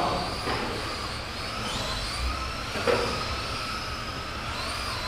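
Several electric RC racing trucks running on the track, their motors whining and rising and falling in pitch as they accelerate and brake. There is a short knock about three seconds in.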